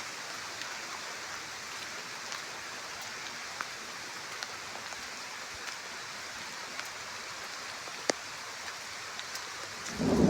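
Steady rain falling, with scattered sharp ticks of drops striking close by. Near the end a loud rumble of thunder breaks in, following a lightning flash.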